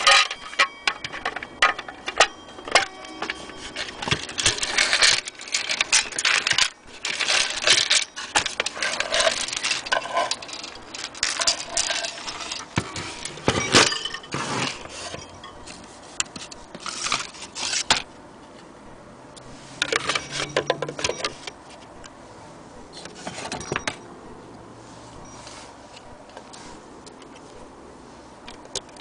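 Metal parts of a weight-driven clock movement and its weights being handled: irregular clinks, clicks and jangling rattles. The rattles come in dense clusters, thin out after about 18 seconds and die down for the last few seconds.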